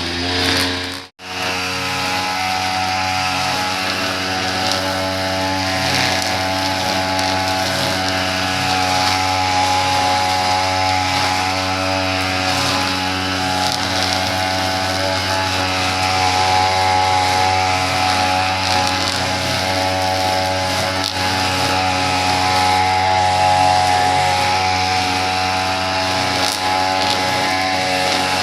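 Small petrol engine of lawn-care equipment running steadily at constant speed, with a brief cut to silence about a second in.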